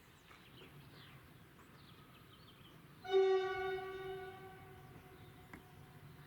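Narrow-gauge electric train's horn sounding one long blast about three seconds in, loud at first and then fading away. Faint bird chirps come before it.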